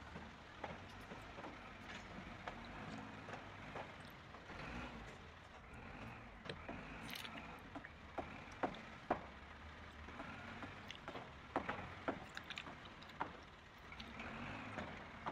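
Toy construction trucks being handled and pushed through loose dirt: light scattered clicks and knocks of small plastic and metal parts over a faint scraping rustle.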